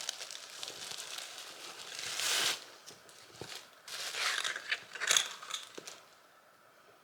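Shipping packaging crinkling and rustling as a package is opened by hand, in irregular handling noises, loudest about two seconds in and again around four to five seconds, then dying down near the end.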